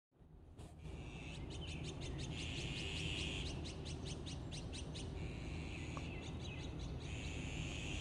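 Wild songbird singing: quick runs of sharp notes, about eight a second, alternating with a rolling trill, over a steady low background rumble.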